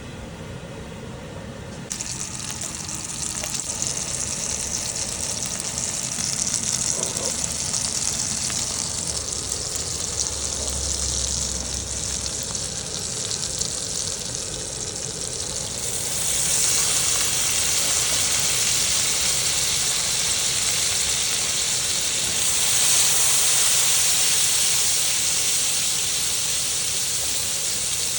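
Food sizzling and frying in a hot pan. The sizzle starts abruptly about two seconds in and grows louder about sixteen seconds in.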